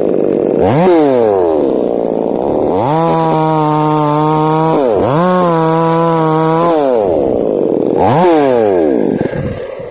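Two-stroke chainsaw revving up and down. Twice it is held at high speed for about two seconds, each time dropping back between, and the sound falls away just before the end.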